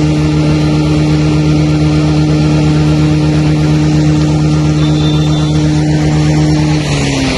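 Motor vehicle engine running with a steady hum, its pitch sliding down near the end.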